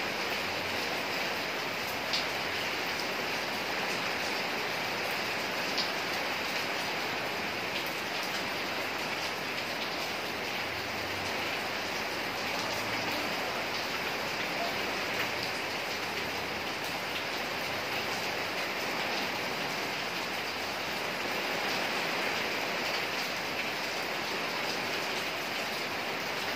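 Steady rain falling, an even hiss with a few sharper drip taps now and then.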